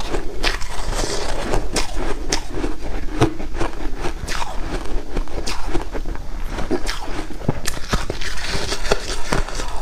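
White ice being crunched and chewed close to the microphone: irregular sharp cracks, several a second, over a steady crackle.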